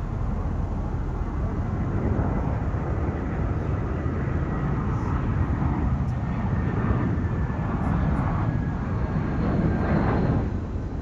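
Jet airliner engines passing by: a steady rumble with a faint whine that slowly falls in pitch.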